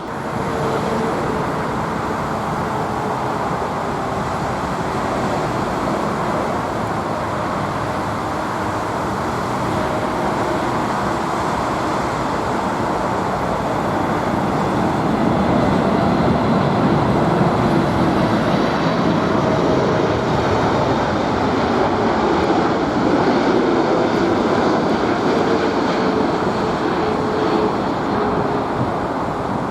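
Jet engines of a Boeing 747, a steady loud rushing noise with faint humming tones that grows somewhat louder about halfway through.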